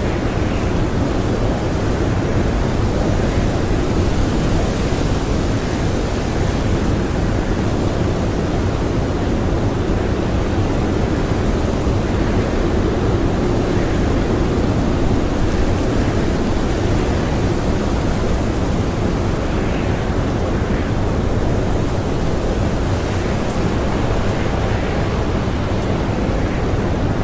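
Blizzard wind blowing hard and steadily: a dense, low rushing that swells and eases slowly, with no let-up.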